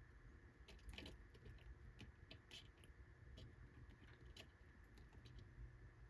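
Faint, irregular ticks and taps of water drops falling into a pet frog's enclosure as makeshift rain.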